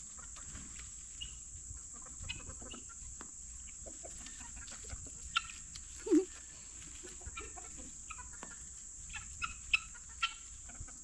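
Backyard chickens and guinea fowl clucking and calling in short scattered bursts as they feed, with one louder, lower call about six seconds in. A steady high insect drone lies under it.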